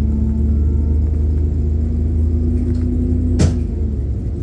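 Passenger train interior while running: a loud, steady low rumble with a hum that rises slightly in pitch and stops near the end. A single sharp metallic clank rings out about three and a half seconds in.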